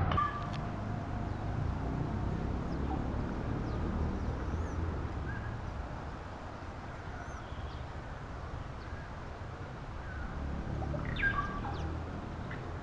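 Scattered short bird chirps and whistles over a steady low outdoor rumble, with a louder burst of calls near the end.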